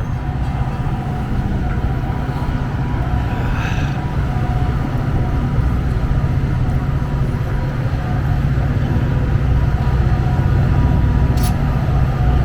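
Steady low rumble of a diesel train engine running at a standstill, with a faint steady hum over it and one short sharp click near the end.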